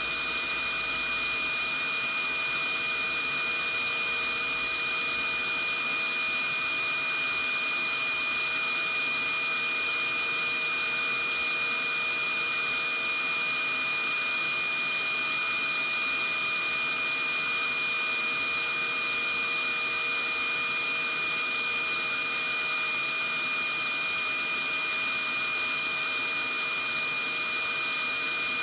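Vacuum cleaner running steadily: an even high-pitched whooshing hiss with a steady whine, played as white noise for settling a baby to sleep.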